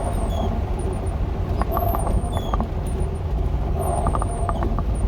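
Dodge A108 van driving slowly on a muddy dirt road: steady low engine and road rumble, with occasional short clicks and rattles.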